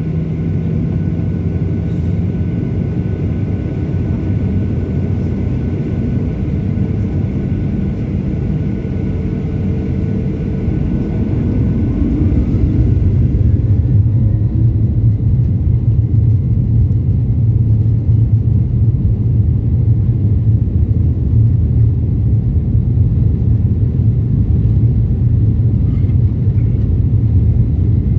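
Airliner jet engines spooling up: a rising whine about twelve seconds in, then the louder, steady rumble of takeoff thrust.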